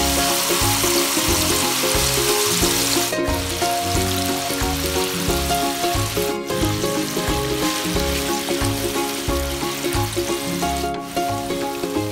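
Tofu cubes deep-frying in hot oil in a wok, the oil sizzling and bubbling hard, heard over background music with a steady beat.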